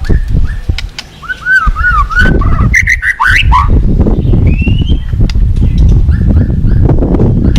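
White-rumped shama singing short whistled phrases that rise and fall in pitch, over the loud, steady rush of fast-flowing river water. The rushing thins for about a second early on, leaving the song clearer, then returns.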